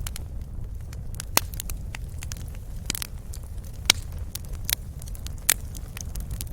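Wood fire crackling: irregular sharp pops and snaps, a few louder ones scattered through, over a steady low rumble of the burning fire.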